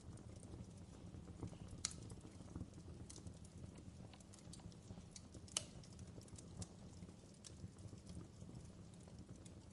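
Fireplace fire crackling quietly: irregular small pops and snaps over a low steady rumble, with two sharper pops about two and five and a half seconds in.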